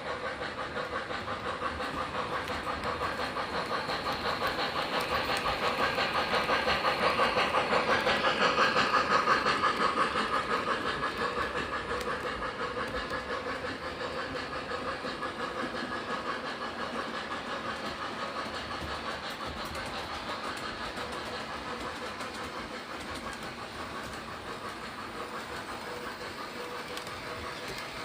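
Model train running along the track, its wheels clicking rapidly over the rail joints with a steady motor hum; it grows louder to a peak about nine seconds in, then slowly fades as it moves away.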